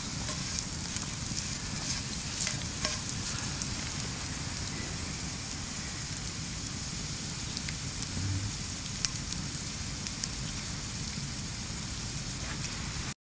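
Pork lard and potato peels sizzling steadily in a hot cast-iron pan over a campfire, with scattered small pops and crackles, one stronger pop about nine seconds in: the pan is being seasoned. The sound cuts off abruptly near the end.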